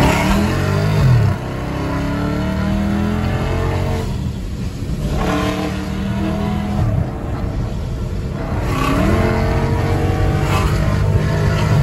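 Car engine heard from inside the cabin, its pitch rising and falling several times as the car accelerates and shifts gears.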